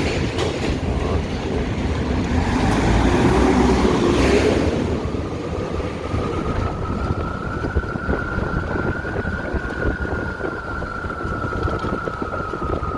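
Wind rushing over the microphone of a moving electric motorcycle, louder in the first few seconds. From about five seconds in, the motor's high whine holds fairly steady, then falls in pitch near the end as the bike slows.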